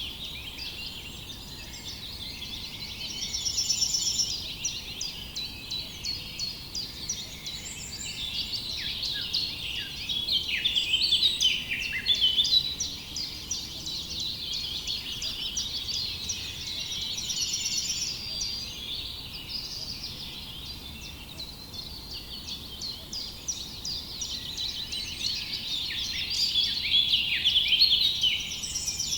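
A dense chorus of many small birds chirping and twittering over one another, growing louder and softer every several seconds.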